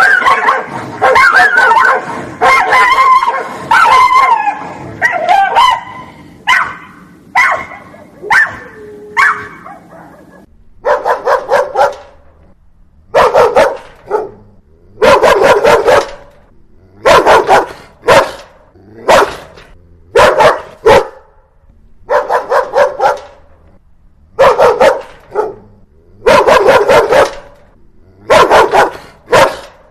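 Dogs barking aggressively and loudly. For the first ten seconds or so the barks overlap in a dense chorus; after that they come in short volleys with brief pauses between.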